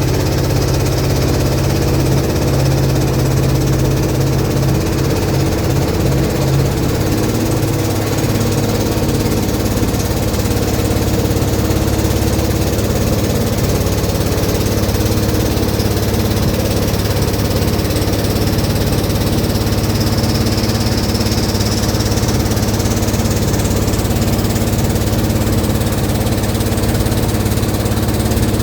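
Long-tail boat engine running steadily while under way, an even, unbroken drone.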